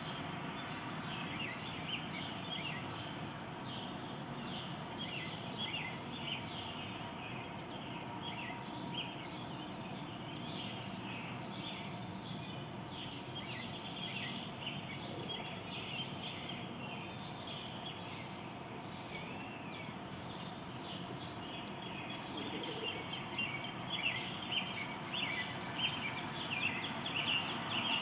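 Small birds chirping over and over, short high calls repeating every second or so and growing a little louder near the end, over a steady outdoor background hiss.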